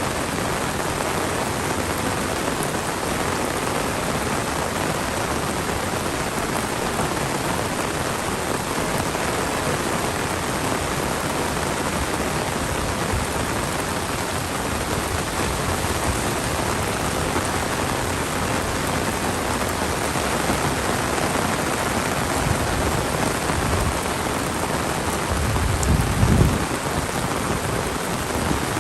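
Heavy monsoon rain falling steadily on the ground and surfaces, an even hiss. Near the end comes a brief low rumble, the loudest moment.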